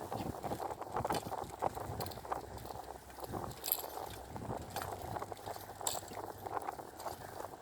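Irregular small clicks and knocks over a low rustle, as of small gear being handled.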